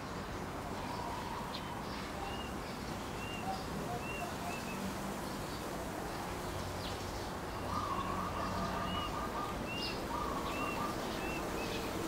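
Birds calling over a steady outdoor background hiss: short, high, arched notes repeated about twice a second in two bouts, with a lower, longer call about eight seconds in.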